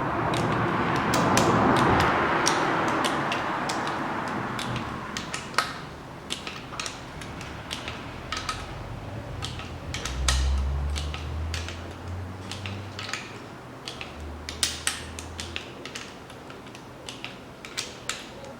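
Torque wrench ratcheting and clicking in quick, irregular strokes while camshaft bearing cap bolts are tightened to 12 N·m, with small metallic knocks of tools on the cylinder head. A low hum comes in for a few seconds in the middle.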